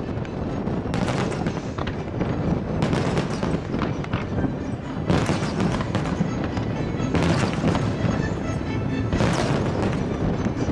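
Fireworks display: a continuous crackle and rumble of an aerial barrage, with louder bursts about every two seconds.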